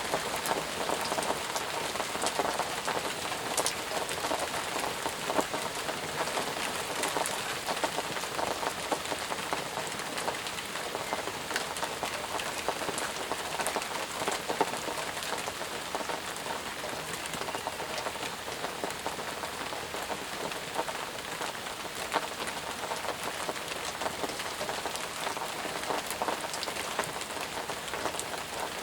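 Steady rain falling, with a dense patter of individual drops striking the surface.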